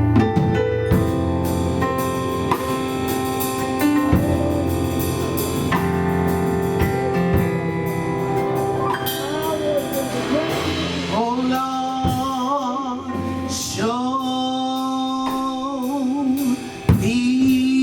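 Live gospel music: a band plays sustained chords, and about halfway through a lead voice comes in with long, wavering held notes.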